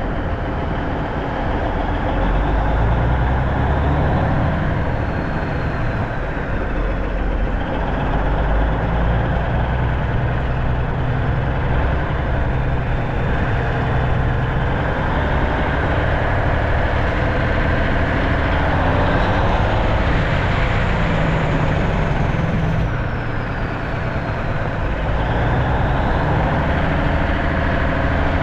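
Diesel engine of a 1989 Kenworth K100E cabover truck running under way, its engine speed rising and falling. A faint high whine sweeps up and back down about two-thirds of the way through.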